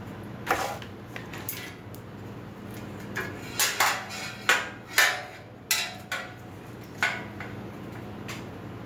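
Metal grill parts clanking and clattering as they are handled and fitted together during assembly: a string of about a dozen sharp knocks with short ringing tails, thickest and loudest in the middle.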